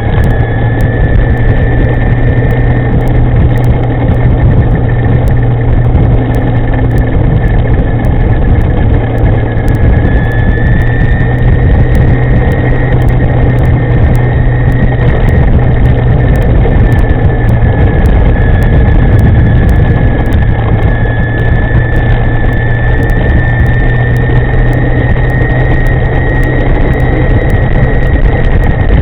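China Motor e-moving electric scooter under way: loud, steady wind noise on the microphone with a low hum and a thin, high motor whine that drifts slowly up and down with speed.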